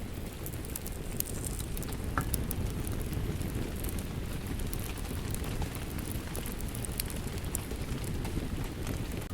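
Rain falling steadily over the crackle of a wood fire: a low, even rush of rain with scattered sharp pops and snaps from the burning logs.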